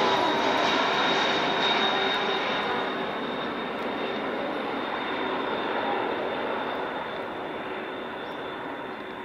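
Engines of a landing airliner running with a steady whine through the roar, fading gradually as the plane moves away down the approach.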